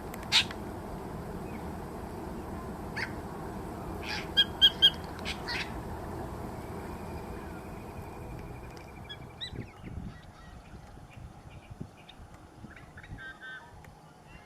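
Birds calling: a loud single call just after the start, another about three seconds in, then a quick run of three loud calls followed by two more, a thin trill, and softer calls near the end, over a steady low background hiss that fades in the second half.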